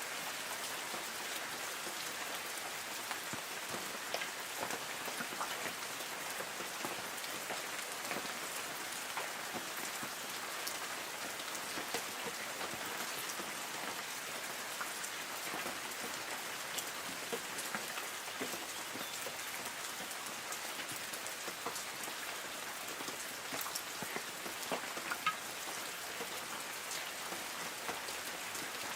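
Light rain falling on forest trees: a steady patter, with many individual drops ticking on leaves.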